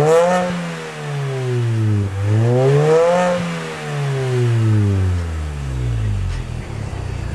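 MINI Cooper S R53's supercharged 1.6-litre four-cylinder engine, breathing through a John Cooper Works exhaust with emptied-out cans and one Borla muffler downstream. It is revved up twice, the pitch climbing and then sinking back, and it settles to a low idle near the end.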